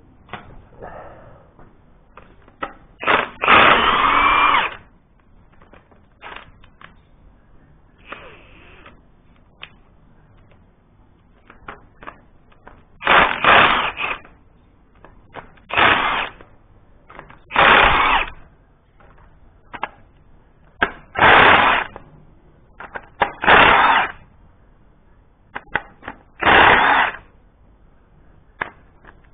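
A power tool run in short bursts, seven times, with pauses between, the first burst the longest at about a second and a half.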